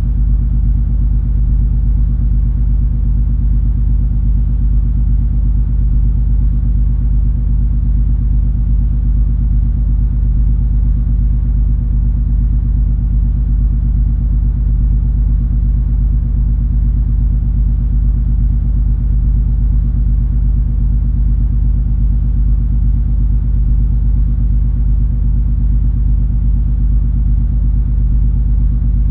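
Cruise ferry MS Color Fantasy underway: a steady, deep engine and hull rumble with a constant low hum.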